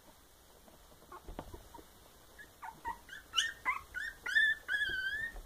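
Nearly three-week-old puppy whimpering: faint clicks, then a run of short, high, squeaky rising cries that come faster and louder from about halfway in, the last one drawn out. It is a young puppy crying for its absent mother.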